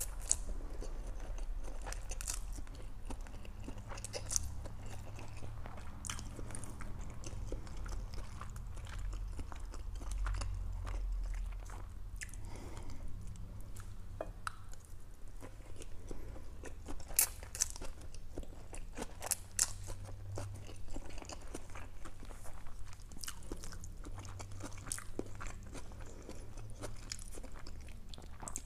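Close-miked chewing of lo mein noodles: wet mouth sounds with scattered sharp clicks and crunches, over a steady low hum.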